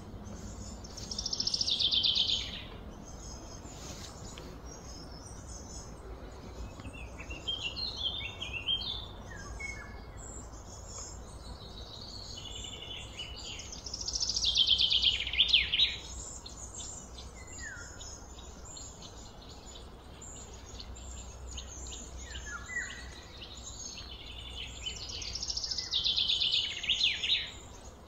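Birds chirping and singing, with one louder trilled phrase that falls in pitch, repeated three times about twelve seconds apart, over a steady low hum.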